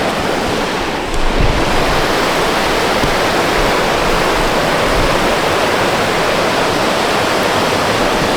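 Steady rush of a waterfall, water pouring over rocks in an even hiss.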